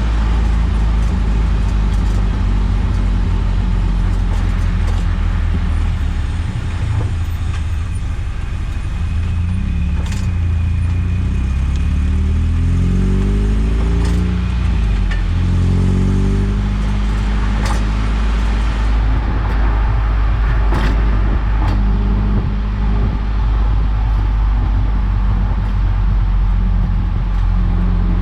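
Eunos Roadster (NA Mazda MX-5) being driven, its engine pitch rising and falling over steady road noise, with a clunk from the suspension about two-thirds of the way through, which the owner suspects is the shock absorber knocking at full extension (top-out).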